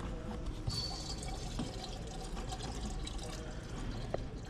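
Coolant being poured into the engine's coolant reservoir, a steady pour of liquid, topping up a low coolant level.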